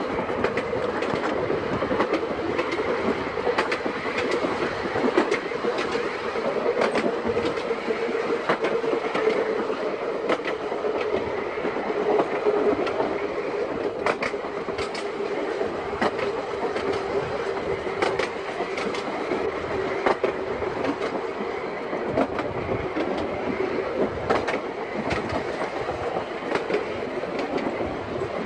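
A Seaton Tramway narrow-gauge electric tram running along the line, with a steady whine that sinks slightly in pitch over the running rumble. Irregular clicks come from the wheels passing over rail joints.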